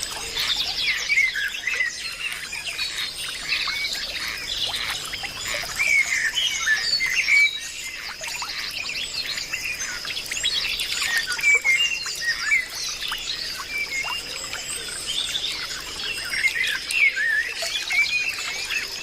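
A dense chorus of birds chirping and calling over one another, with a steady high-pitched whine underneath.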